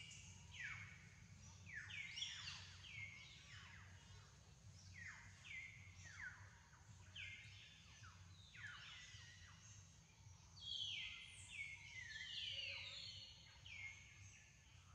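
Faint chorus of wild birds: many high calls that each fall steeply in pitch, overlapping and repeating about once a second, over a low steady hum.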